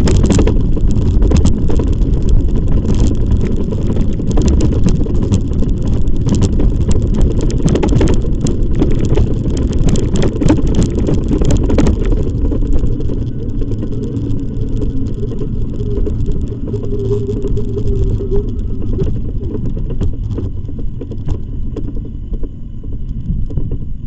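Wind buffeting the microphone and tyre rumble while riding an e-bike, with frequent knocks from bumps. The noise eases about halfway through, and a short steady hum comes in for a couple of seconds later on.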